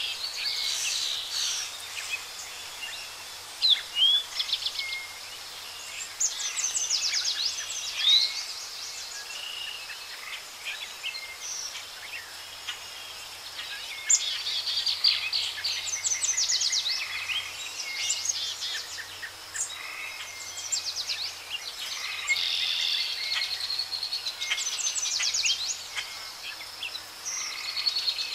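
Several songbirds singing and chirping over a steady outdoor hiss, with quick trills recurring every few seconds.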